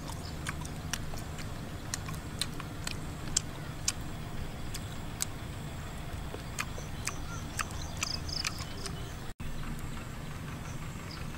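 Irregular wet clicks and lip smacks of someone chewing meat, over a steady low outdoor rumble. Short runs of quick, high chirping come in near the middle and again near the end.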